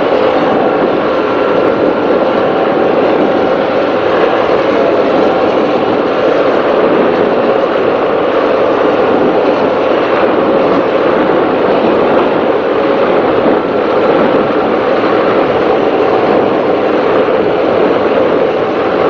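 Offshore racing powerboat running at speed, heard on board: a loud, steady drone of the engines under a rush of wind and water on the hull.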